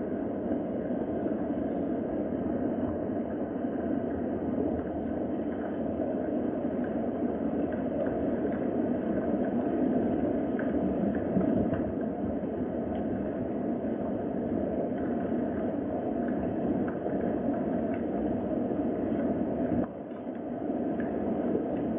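Steady rain ambience: an even wash of falling rain with faint scattered ticks of drops, dipping briefly about two seconds before the end.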